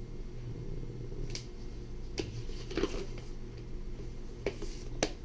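Paper instruction manual being handled, its pages turned: a few short rustles and clicks, over a steady low hum.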